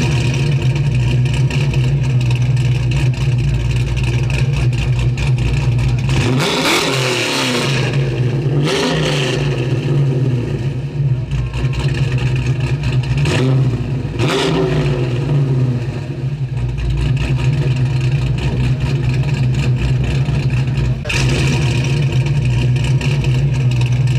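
A car engine idling steadily, revved several times with the pitch rising and falling back, and rising again near the end.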